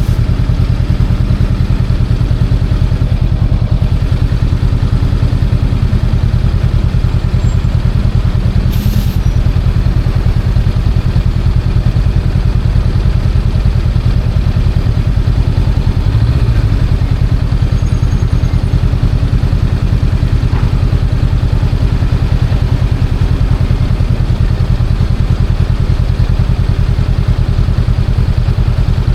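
Honda Rebel 500's 471 cc parallel-twin engine running at a steady speed while the bike is ridden, its pitch holding level, with wind noise over it.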